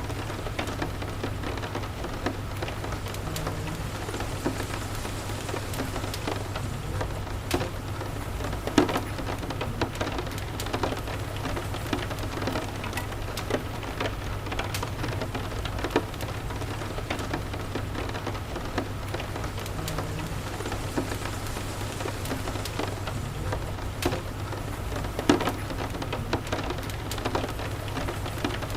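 Steady rain ambience with a low steady rumble under it, mixed with a crackling fireplace: scattered sharp pops, the loudest about 9 and 25 seconds in.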